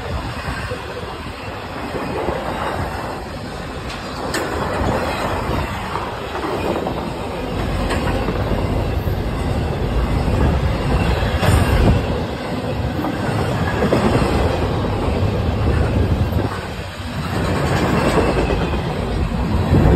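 Intermodal freight train's cars rolling past close by: steady rumble and clickety-clack of steel wheels on the rails, swelling and easing every couple of seconds as the cars go by, with a few sharp clicks.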